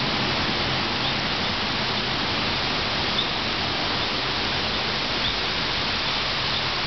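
Steady rain during a thunderstorm, an even hiss with no thunder inside these seconds.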